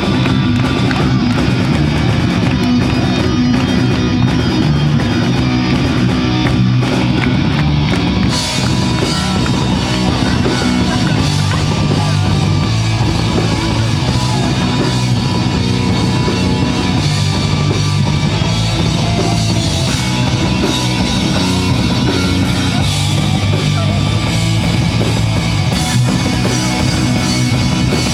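Live rock band playing loudly at an outdoor stage, with distorted electric guitar, bass and a drum kit keeping a steady beat.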